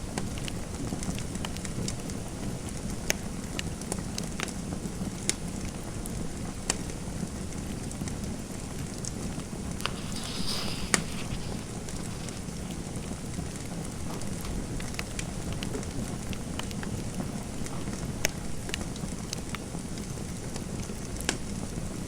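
Fireplace fire crackling: a steady hiss of burning with irregular sharp pops and snaps scattered throughout. About halfway through there is a brief scratchy rustle.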